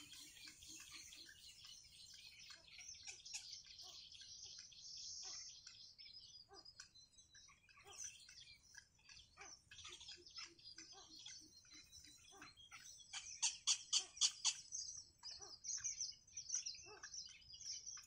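Birds chirping: a steady stream of short, high calls, with a louder run of quick chirps about thirteen to fourteen and a half seconds in.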